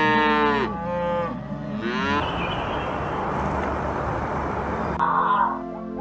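Cows mooing: a long, loud low call at the start followed by two shorter ones within the first two seconds, then a steady hiss.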